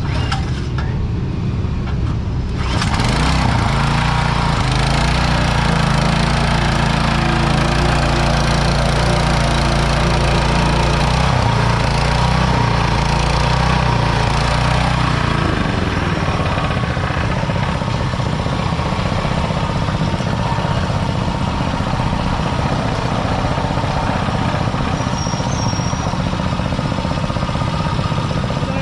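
Small gasoline engine of a portable water pump starting up about two and a half seconds in and running steadily; its sound changes to a rougher, less even note about halfway through.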